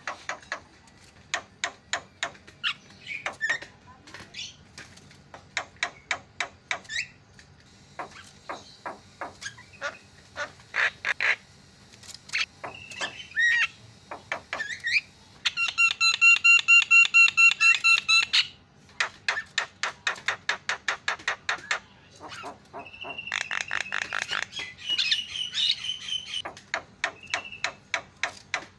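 Javan myna (jalak kebo) calling: rapid runs of harsh clicking chatter mixed with short whistled notes. A loud, rasping, pulsed squawk runs for about three seconds past the middle, and the chatter and whistles resume after it.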